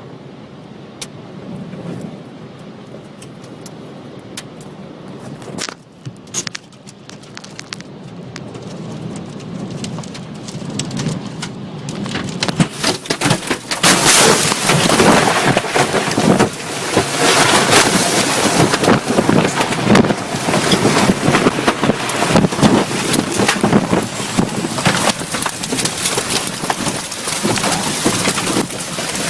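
Severe storm: heavy rain and wind, with scattered sharp hits that grow dense when the storm gets much louder about thirteen seconds in.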